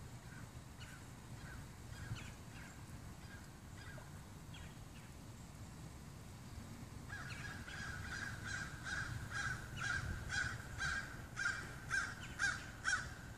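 A bird calling in a long, even series, about two calls a second: faint at first, then louder from about halfway in and loudest near the end.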